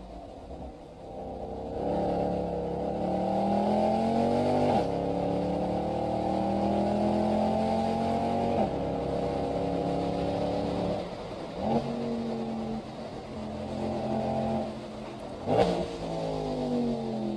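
Mercedes-Benz SL63 AMG's V8 heard from inside the cabin, pulling through the gears: the engine note climbs, drops at an upshift about five seconds in and again about halfway, then holds at a steady cruise. Late on there is a sharp loud burst, after which the pitch falls as the car slows.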